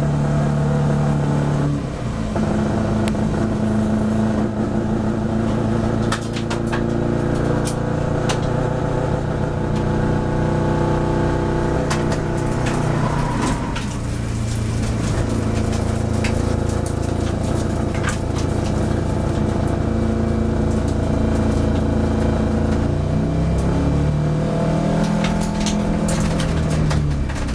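Car engine being driven hard at high revs, its pitch stepping between levels several times. Near the end the pitch falls and climbs again in quick sweeps.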